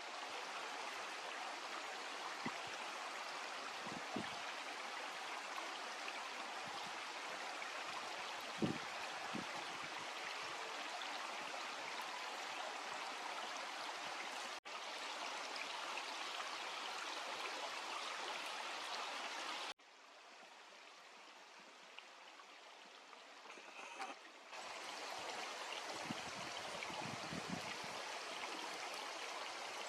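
Steady rushing of a mountain stream, with a few soft low thumps. About two thirds of the way through it drops abruptly to a quieter hiss for about five seconds, then comes back.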